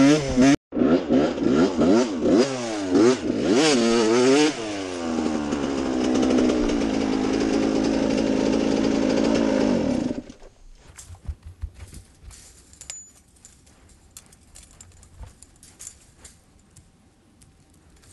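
Dirt bike engine being revved up and down several times, then running at a steadier speed before stopping abruptly about ten seconds in. Faint scattered clicks and taps follow.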